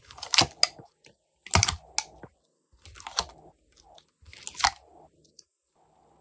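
Glossy slime being mixed and squeezed, giving sticky crackling and popping in four short bursts about a second and a half apart.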